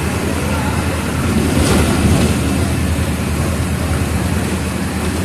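Mercedes-Benz OF 1722M city bus's diesel engine running steadily on the move, a low drone over road rumble, with a short hiss a little under two seconds in.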